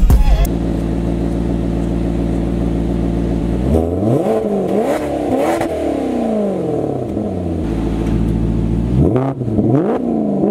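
Maserati GranTurismo V8 idling steadily, then blipped through a series of quick revs that rise and fall. It settles back to idle, then is revved twice more near the end.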